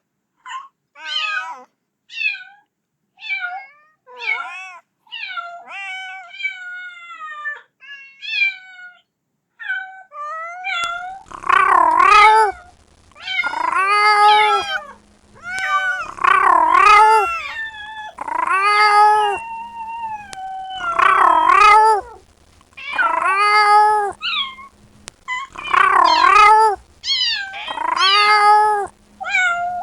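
Kitten meowing over and over, calling for its mother. The first ten seconds or so are quick, short meows; after that come louder, drawn-out meows about every two seconds.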